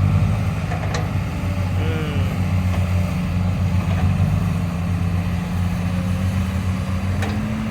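Heavy diesel engine running steadily with a low, even hum, its pitch rising slightly near the end.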